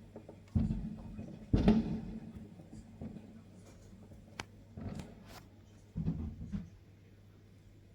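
Fireworks going off in the distance: a string of separate bangs and sharp cracks, the loudest about one and a half seconds in, with a few more near the middle and a last pair about six seconds in.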